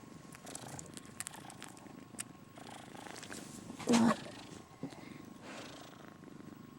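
Calico kitten purring steadily while it nurses, with scattered faint clicks. One short, louder voiced sound comes about four seconds in.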